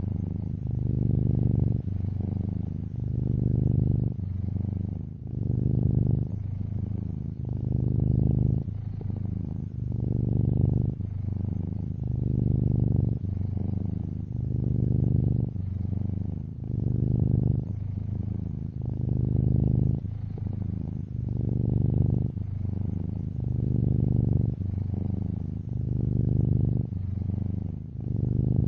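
Domestic cat purring, a low steady buzz that swells and eases with each breath, about once every two seconds.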